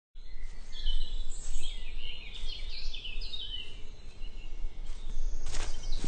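Songbirds chirping and calling in quick rising and falling notes, busiest in the first few seconds and sparser after, over a low steady rumble of outdoor ambience.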